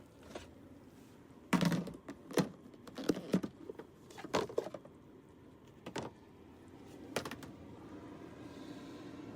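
Kitchen clatter from transferring cooked curry from the pot into storage containers: a string of knocks and scrapes of a spoon, pot and containers, with the loudest knocks between about one and a half and seven seconds in.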